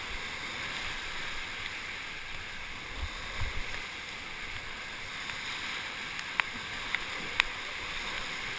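Whitewater river rushing steadily past a raft, with a low thump about three seconds in and three sharp knocks near the end.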